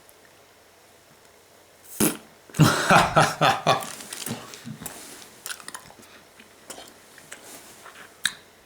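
Wet mouth sounds from a huge wad of bubble gum in a saliva-filled mouth: a sharp smack about two seconds in, then a cluster of throaty, squelching blowing and chewing noises as air is forced against the gum, tailing off into small clicks.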